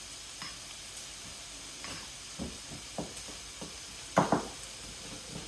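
Sticky pizza dough being squeezed and kneaded by hand: a string of short, wet squelches, the loudest about four seconds in, over a steady hiss.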